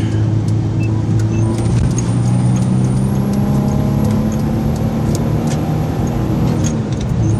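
Truck engine and tyre noise heard from inside the cab while driving, a steady low hum whose engine note rises a little about two seconds in.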